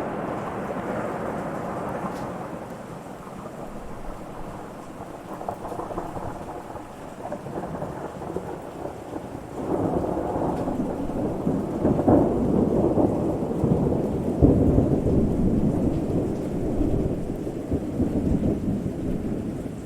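Thunderstorm: rolling thunder over steady rain. One rumble fades away in the first few seconds, and a new, louder peal breaks in suddenly about halfway and rolls on to near the end.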